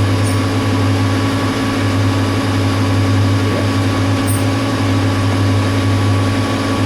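Metal lathe running steadily under a turning cut, reducing the bar stock's diameter: an even motor and gearbox hum.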